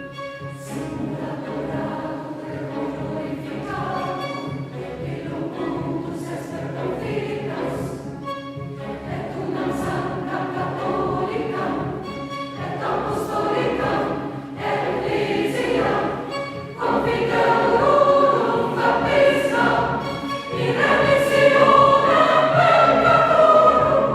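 Mixed choir singing with a chamber orchestra, growing louder in the last third.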